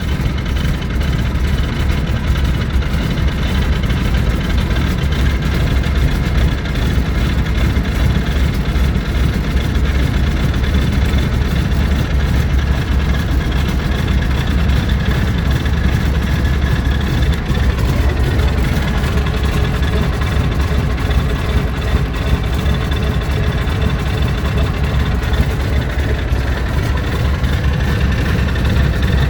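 Pratt & Whitney R-985 nine-cylinder radial engine of a Stinson running steadily after start-up, warmed up and stabilised. Its pitch shifts slightly about two-thirds of the way through.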